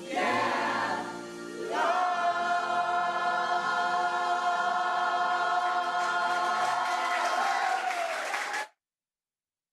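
Choir singing a final phrase and holding the closing chord for about seven seconds, which cuts off abruptly.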